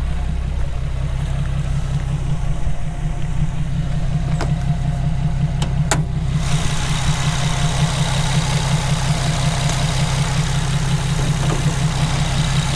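Nissan VQ35HR V6 engine idling steadily, with a couple of short sharp clicks near the middle.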